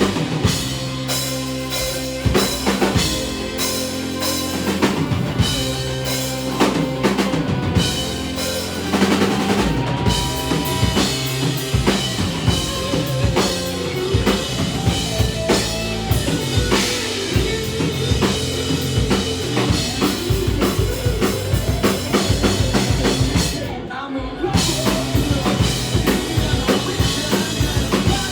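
Live punk rock band playing loud and fast, with a busy drum kit hitting bass drum and snare over the band; the cymbals and high end cut out for a moment about three-quarters of the way through.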